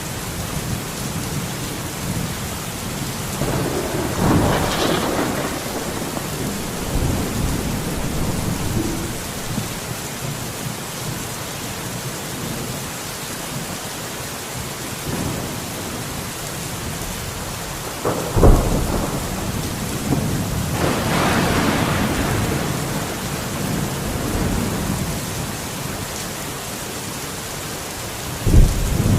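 Steady rain falling through a thunderstorm, with rolling thunder. Thunder rumbles a few seconds in; about two-thirds of the way through a sharp clap rumbles on for several seconds, and another clap breaks right at the end.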